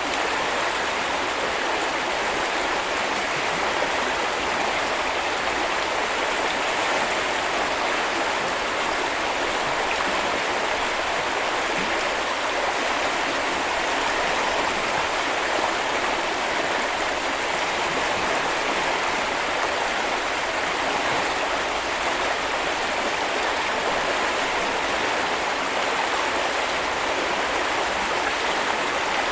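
Small river or brook flowing, a steady rushing of water with no breaks or distinct events.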